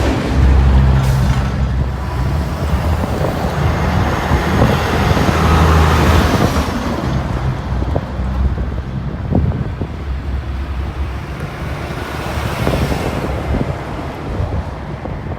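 Diesel semi-truck engines running as big rigs drive past one after another, the drone swelling near the start and again about halfway through, then easing off.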